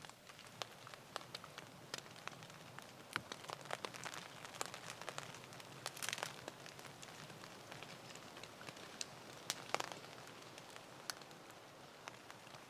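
Rain pattering on a tarp: a faint steady hiss with many irregular sharp taps, and a couple of louder noisy bursts about six and ten seconds in.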